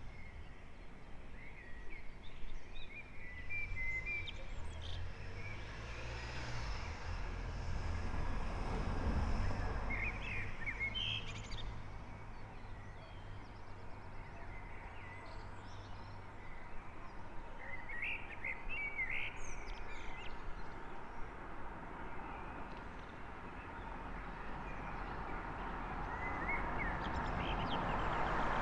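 Birds chirping in short scattered calls over a low, steady rumble of distant traffic; a car approaches near the end, growing louder.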